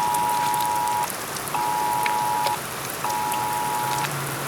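Emergency alert attention signal for a flash flood warning, coming over a radio: a steady two-pitch tone held for a second, then two one-second beeps half a second apart. Steady rain falls on surfaces underneath.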